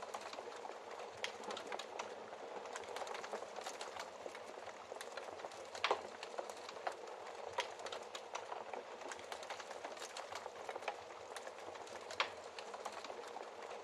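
Wood fire crackling in a fireplace: a steady hiss of burning with frequent small crackles and a few sharper pops, the loudest about six seconds in and again a little before the end.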